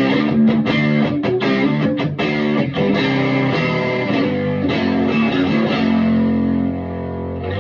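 Electric guitar played through a Vintage Sound Amp on the middle pickup position, with strummed chords and picked notes in a lightly driven tone, then a final chord left ringing for the last couple of seconds.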